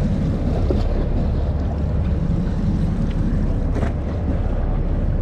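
Sportfishing boat's engine running steadily with a low rumble, under wind buffeting the microphone and sea noise.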